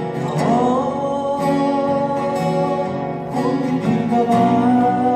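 Acoustic guitar strummed under a singer holding long notes in a Korean folk ballad.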